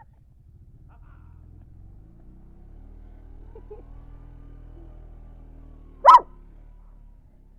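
A dog barks once, sharply and loudly, about six seconds in, over a steady low engine hum.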